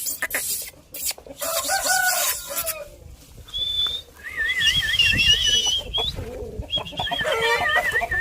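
Aseel chickens clucking and calling, with a rooster crowing and several warbling, high-pitched calls in the second half, among short clicks and knocks.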